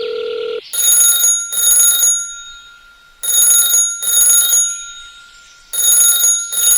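Electronic ringing in pairs of short rings, repeating about every two and a half seconds. A steady beep tone cuts off just under a second in.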